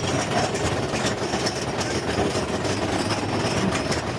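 Mine-train roller coaster cars rumbling and rattling along the track, heard from on board, with irregular sharp clacks over a steady rumble.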